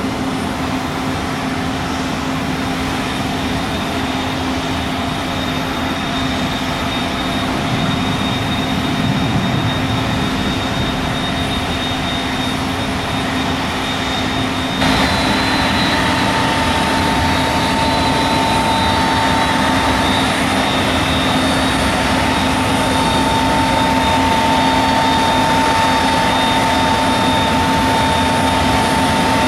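Jet engines of a USAF C-5 Galaxy running steadily with a constant whine over a broad rush. About halfway through the sound jumps suddenly louder and a new, higher steady whine comes in.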